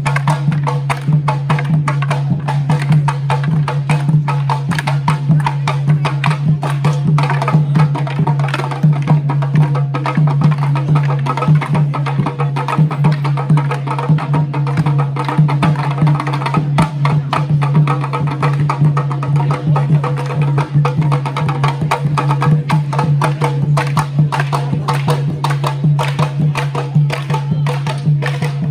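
Tharu folk music with a drum beating and rapid, dense clacking of wooden sticks, as in a Tharu stick dance, over a steady low drone.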